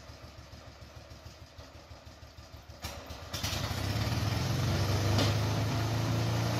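Motorcycle engine of a homemade big-tyred karakat idling with a low, even beat, then a knock a little under 3 seconds in, after which the engine revs up and runs steadily louder as the machine moves off.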